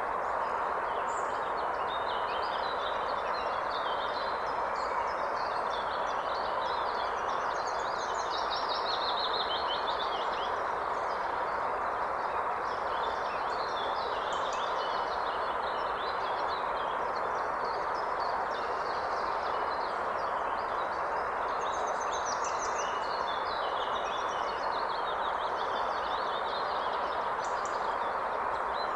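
Steady rushing of river water, with several songbirds chirping and singing over it.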